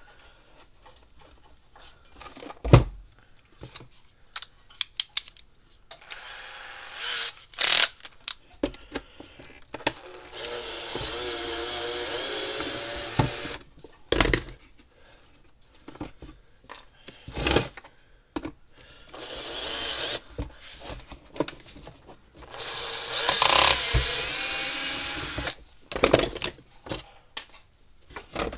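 Cordless drill/driver running in four short spells, backing screws out of a plastic fence-charger housing. Sharp knocks and clatter of the parts being handled come between the spells, the loudest a few seconds in.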